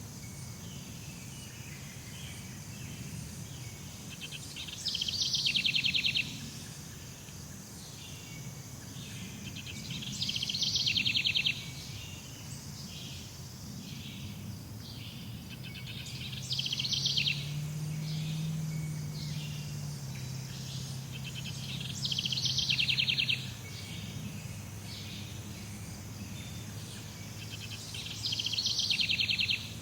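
Jungle ambience: a steady high insect drone with a loud trill of rapid pulses that comes back about every six seconds, five times, each lasting about a second and a half, over a low rumble.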